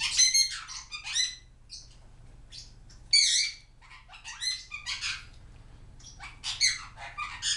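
Pet parrots squawking and chirping in a string of short calls, several in quick clusters about a second apart.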